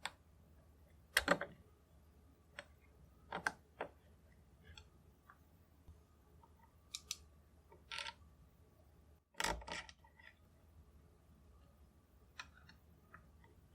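Scattered sharp clicks and light knocks of a steel Krag rifle trigger guard and action being fitted into a walnut stock, about half a dozen spaced a second or two apart, the loudest near the middle.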